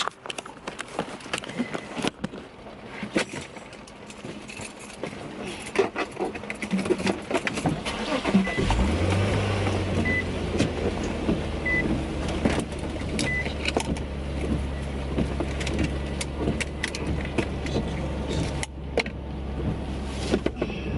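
Clicks and clatter of keys and car fittings, then a car engine starting about eight and a half seconds in and idling steadily, with a few short high chime beeps soon after it starts.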